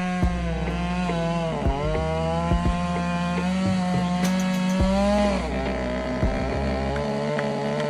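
Two-stroke chainsaw running at high revs while cutting wood, its pitch dipping briefly as it bogs in the cut, once about two seconds in and again around five seconds in.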